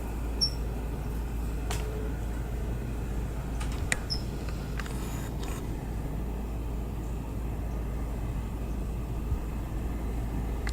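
Steady low background rumble of yard ambience, with two brief high chirps, about half a second and four seconds in, and a few faint clicks.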